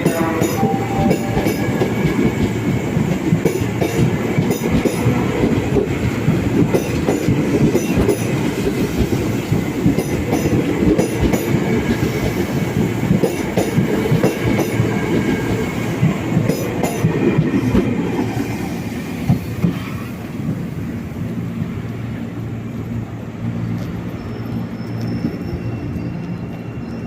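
A train rolling along the tracks, its wheels clacking over the rail joints. The running noise eases off about two-thirds of the way through.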